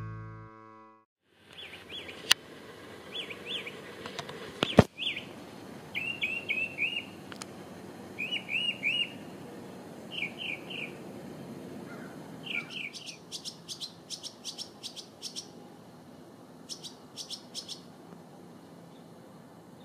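Small birds calling: short groups of two to four quick chirping notes, then from about thirteen seconds a run of higher, thinner notes. A single sharp knock about five seconds in is the loudest sound.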